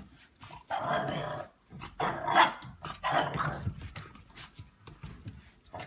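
A dog barking and growling in several short bursts, a few louder ones in the first half, then fainter ones.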